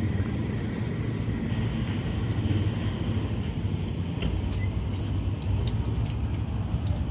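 Steady low rumble of a running motor vehicle, with faint light clicks.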